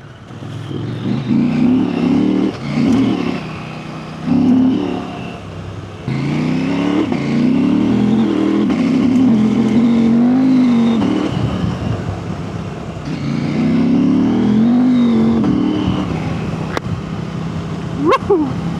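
Husqvarna Norden 901 adventure motorcycle's parallel-twin engine under way, the revs rising and falling several times as the bike accelerates and shifts. Near the end there is a brief sharp sound that slides in pitch.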